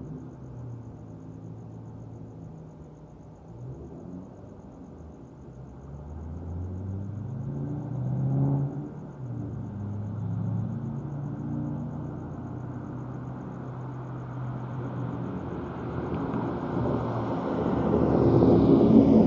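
2008 Ford Mustang GT's 4.6-litre V8 running through high-flow cats and an X-pipe with the mufflers deleted. The engine note rises in pitch and drops off about eight seconds in, then grows steadily louder over the last few seconds.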